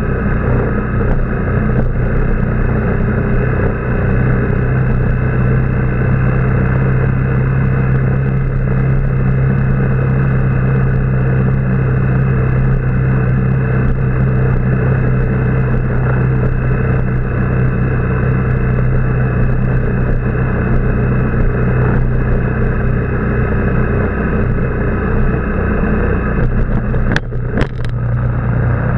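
Motorbike engine running steadily under way, a constant low hum over road and wind noise. A few sharp knocks sound near the end.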